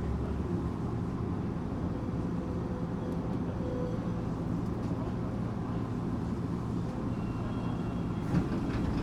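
Tokyu 8500 series electric train heard from inside the car while running: a steady low rumble of wheels on rail and the underfloor equipment, with a faint held tone. A few short clicks come near the end.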